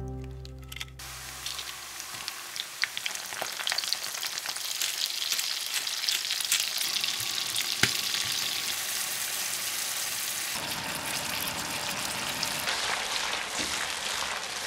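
Shrimp and sliced garlic frying in plenty of olive oil in a cast-iron skillet: a dense, steady sizzle with crackles and pops, starting about a second in.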